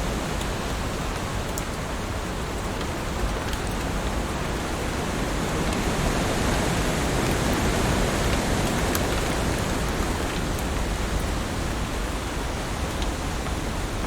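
Heavy rain falling on leaves: a steady, dense hiss with faint drop ticks, swelling a little in the middle.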